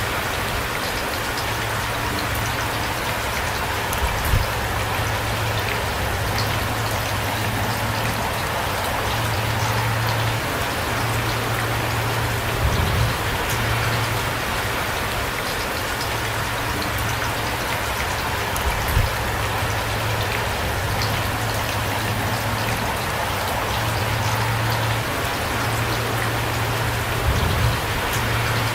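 Heavy rain falling steadily: a dense, even hiss of drops, under a low steady hum, with four brief low thumps spread several seconds apart.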